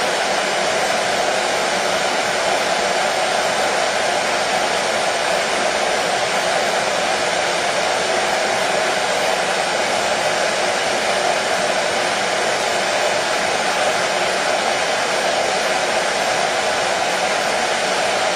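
Hair dryer running steadily, an even rush of blown air with its strongest part in a mid-low hum.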